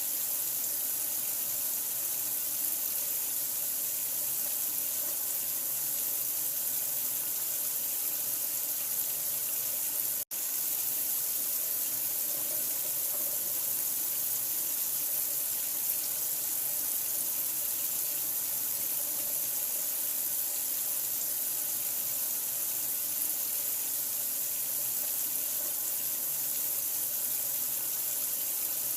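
Water running steadily, like a tap flowing into a sink: a constant, even hiss. It cuts out for a split second about ten seconds in and resumes at once.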